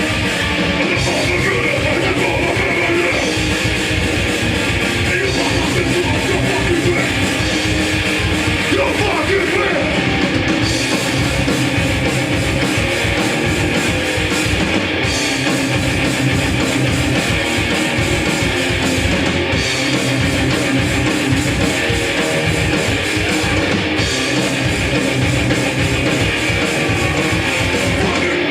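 Hardcore punk band playing live: distorted electric guitars, bass and drums at full volume with no break.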